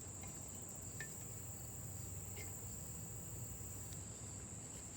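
Crickets chirring in a steady, unbroken high-pitched trill, with a few faint clicks.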